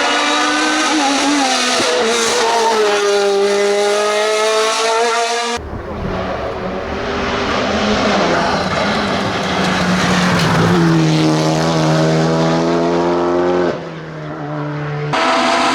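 Hillclimb racing car engines at high revs, heard in several abruptly cut shots. In the first, the engine note drops and then holds. Next comes a deeper engine whose pitch climbs about halfway through as it accelerates. A different car's engine cuts in near the end.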